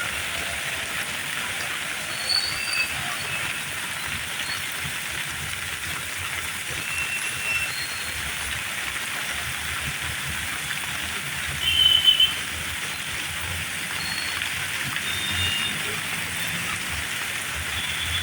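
Heavy rain falling steadily. A few short, high-pitched chirps sound over it, the loudest about twelve seconds in.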